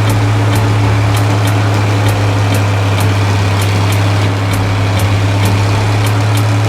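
Steady low hum of a heavy vehicle engine idling, as a cartoon sound effect, with a light tick about twice a second.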